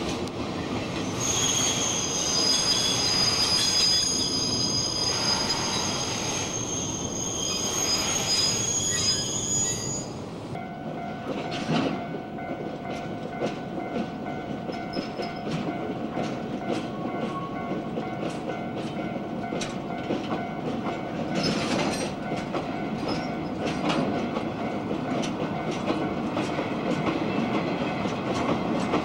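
Freight wagons rolling slowly on steel rails: for about the first ten seconds the wheels squeal with several high steady tones. Then a string of cement tank wagons rolls by, wheels clicking steadily over the rail joints above a low rumble.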